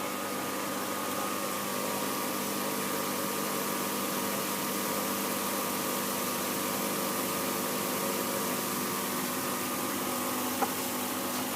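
Twin tub washing machine motor running with a steady hum. A single sharp click about ten and a half seconds in.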